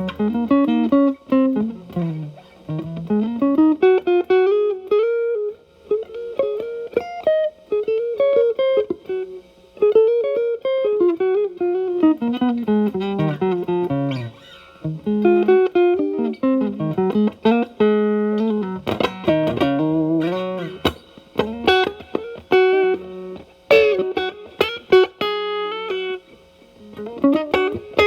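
Telecaster electric guitar played through an E.W.S. Brute Drive distortion pedal at a gain setting of 9, into the clean channel of a Marshall Valvestate amp. It plays single-note lead phrases with bends and slides, in short runs with brief pauses between them.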